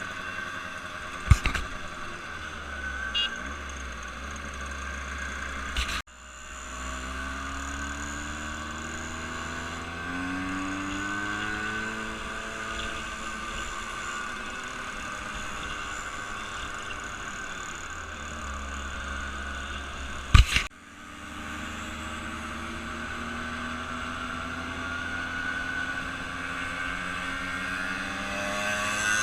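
Car engines running, their pitch rising and falling as they rev and ease off. Two sharp knocks cut through, one about a second in and one about two-thirds of the way through, the second followed by a sudden break in the sound.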